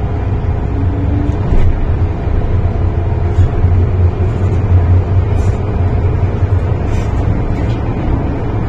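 MTR Tsuen Wan Line M-Train electric train running, heard from inside the car: a steady low rumble of motors and wheels on the track.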